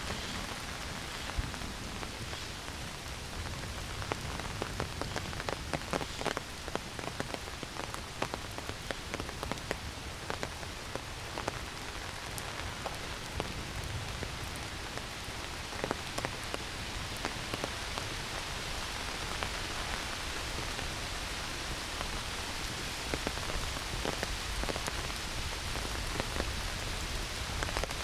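Heavy rain falling in a forest: a steady hiss with many sharp, close drop hits.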